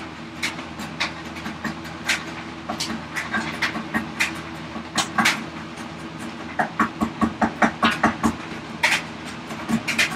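Short scraping strokes of a hand tool cutting ash wood, irregular at first, then a quick run of about five strokes a second in the second half, over a steady low hum.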